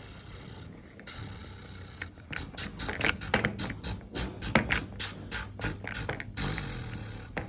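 Toy vehicle's small motor whirring, with a run of rapid clicking from its gears in the middle before the steady whir returns near the end.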